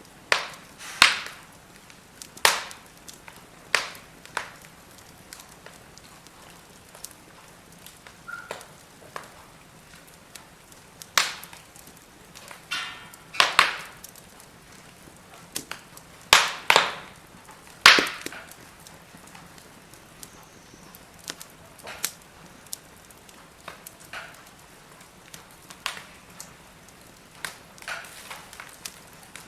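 Firewood burning in a fire bowl, crackling with sharp, irregular pops a second or a few seconds apart over a low hiss. The loudest pops come near the middle.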